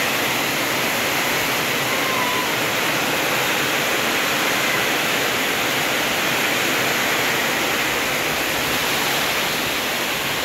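Heavy downpour driven by strong wind: a loud, steady rush of rain without a break.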